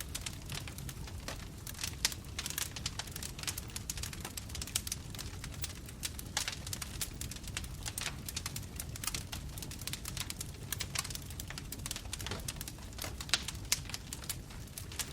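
Bonfire crackling: dense, irregular snaps and pops of burning wood over a steady low rumble of the flames, with a few louder pops about two seconds in and near the end.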